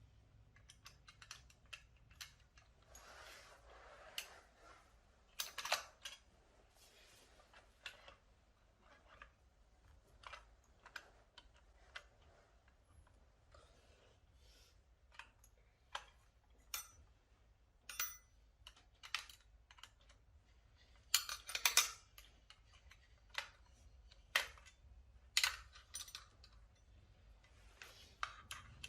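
Irregular clicks, taps and light knocks of small hard objects being handled, scattered unevenly, with a louder cluster about three-quarters of the way through.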